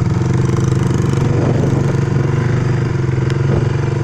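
A small off-road vehicle engine, from a four-wheeler or dirt bike, running at a steady speed, with a few light rattles and clicks.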